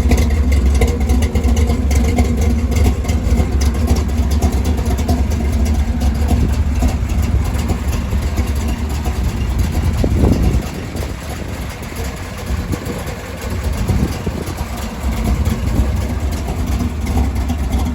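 1966 Plymouth Belvedere's 383 big-block V8 idling with a deep steady rumble. About ten seconds in, a short rev rises and falls, and after it the engine is quieter.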